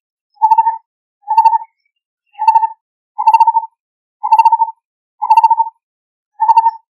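Lineated barbet calling: a short, rippling hoot-like note repeated about once a second, seven times in a row.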